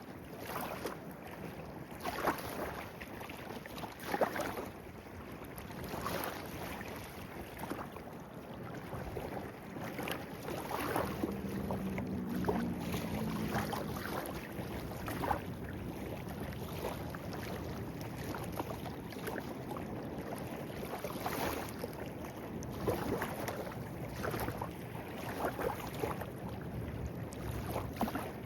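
Clear-water stream burbling steadily, with irregular small splashes and gurgles.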